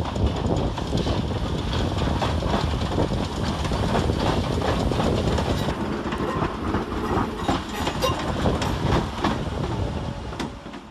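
Merseyrail Class 508 electric multiple unit rolling into the platform, its wheels clicking and knocking over rail joints and pointwork above a steady rumble, which dies down near the end.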